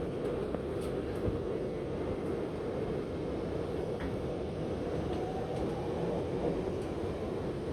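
Steady rumble and hum inside a Shanghai Metro Line 9 train car, with a faint rising whine coming in about five seconds in.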